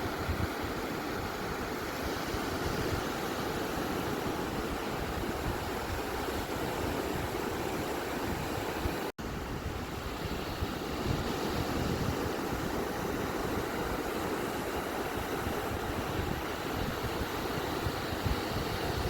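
Ocean surf washing onto a beach in a steady, unbroken rush, with no distinct breakers standing out. The sound cuts out for an instant about nine seconds in.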